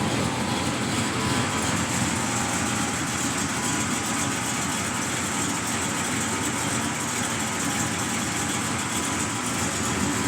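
1982 El Camino's rebuilt small-block V8 with an LT4 hot cam idling steadily.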